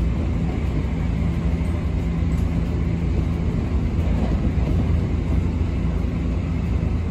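Moving train heard from inside the passenger car: a steady rumble of running noise with a low hum beneath it.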